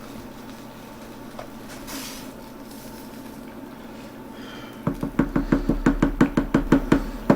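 A faint steady background, then about five seconds in a quick, even run of sharp knocks, about five a second.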